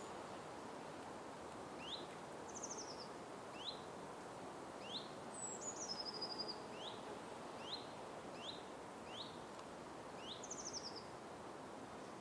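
Birds calling in a forest over a steady background hiss: short rising chirps repeated roughly every second, with two quick trills and one falling whistle among them.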